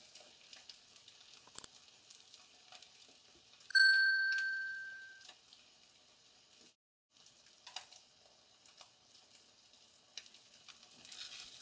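Egg, tofu and minced pork frying faintly in a pan while the egg sets. About four seconds in, a single bright ding rings out and fades over about a second and a half, the loudest sound here. The sound cuts out briefly about seven seconds in.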